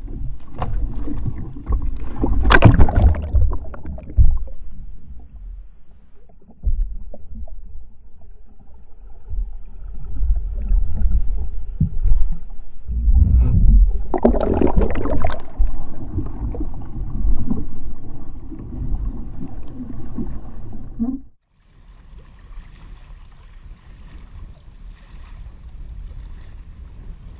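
Water sloshing and splashing around a kayak during a kayak roll, a heavy low rumble with loud surges of splashing about two seconds in and again near the middle. About twenty seconds in it cuts off abruptly, leaving a quieter steady hiss.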